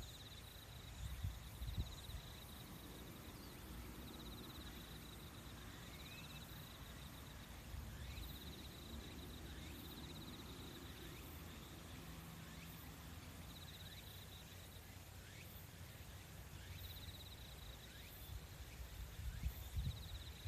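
Nature-sound ambience: an insect's high, rapidly pulsed trill repeating in bouts of a second or two, over a faint low rumble.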